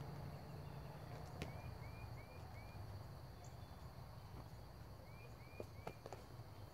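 Quiet outdoor background: a bird repeating a short chirp in two runs of three, over a steady high insect-like hum and a low rumble, with a few sharp clicks.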